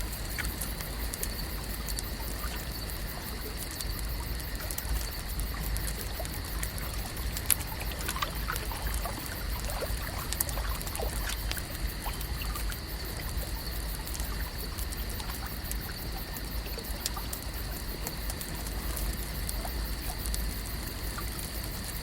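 Lakeside ambience: water trickling and lapping with small drips, over a steady high hum and a constant fine ticking. A cluster of little drips and plops comes about a third of the way in.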